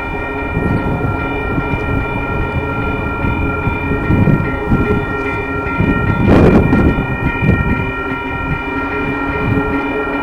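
Approaching train sounding its chime horn in one long, steady blast over the rumble of the train, with a louder rush of noise about six seconds in.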